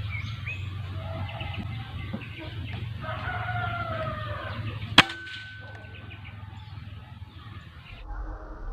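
A rooster crows in the background, then about five seconds in comes a single sharp crack of an air-rifle shot, followed by a brief ringing tone, over a steady low hum.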